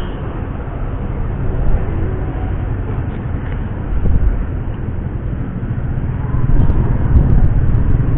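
Steady low rumble of road traffic and motor vehicle engines running, getting louder about six and a half seconds in.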